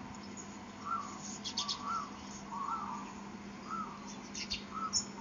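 Birds calling: one bird repeats a short note that rises and falls, roughly once a second, with a few brief high chirps from another bird in between.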